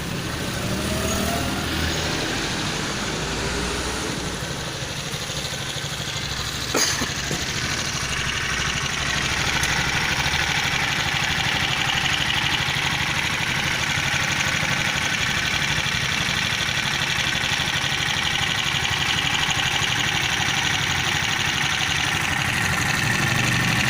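A freshly reassembled Viar engine running steadily at idle, with a single sharp click about seven seconds in.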